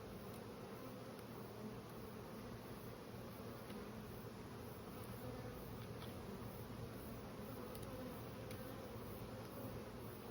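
Steady buzzing hum of a swarm of honeybees flying close around a nuc box.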